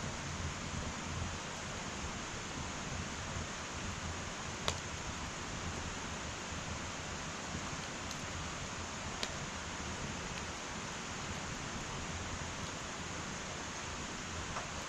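Wood fire burning in an irori sunken hearth: a steady soft hiss with two sharp crackles, one about four and a half seconds in and another about nine seconds in.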